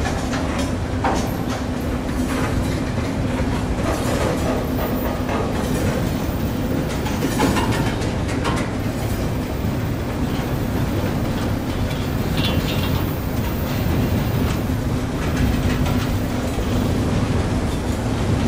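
Freight train rolling past: a continuous rumble of railcars, with wheels clicking over the rail joints now and then.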